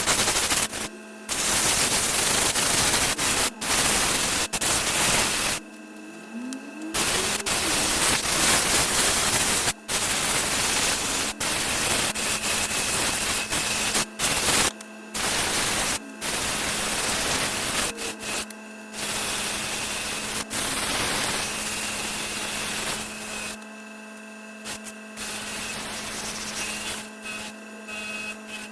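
Power tool running against walnut wood: a steady hum under hissing, rubbing noise, broken off abruptly again and again by cuts.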